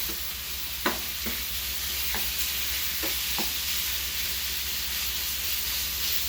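Diced chicken thighs sizzling as they fry in a pan of oil, with a few knocks of a utensil against the pan in the first three seconds or so as the meat is stirred.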